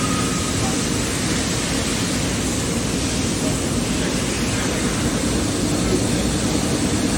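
Steady machine-shop background noise: a loud, even rushing hum, with a faint high whistle that stops about half a second in.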